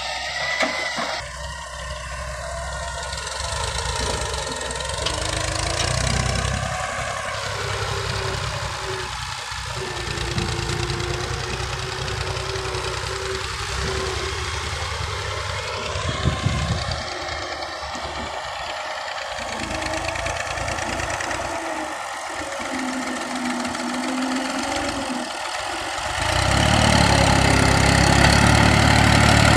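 Tractor engine running with its revs rising and falling, then a louder, steady run near the end.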